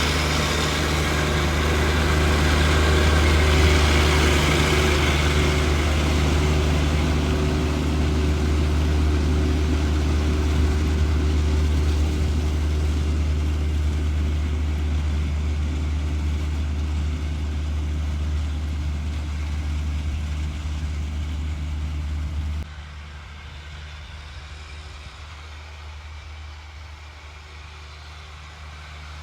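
John Deere 1025R compact tractor's three-cylinder diesel engine running steadily, with a rushing noise over the hum; about three-quarters of the way through the sound drops suddenly and the engine runs on much quieter.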